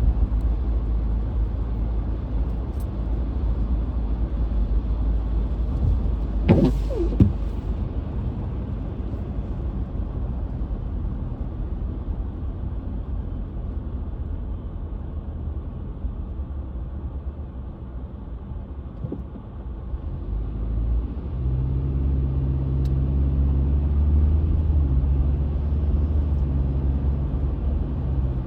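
Car driving, heard from inside the cabin: a steady low rumble of road and engine noise. A brief squeal comes about six to seven seconds in. Later the engine hum grows louder and steadier as the car picks up speed.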